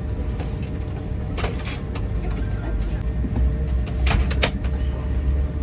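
Steady low rumble of a road vehicle heard from inside, growing heavier about halfway through, with a few sharp clicks or rattles.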